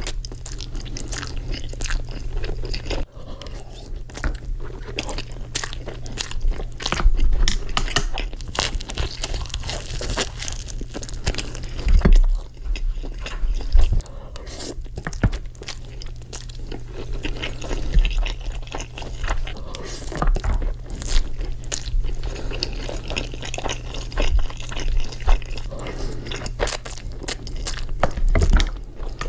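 Close-miked eating sounds: a person chewing and biting mouthfuls of food, with many small irregular crackles and wet clicks over a steady low hum.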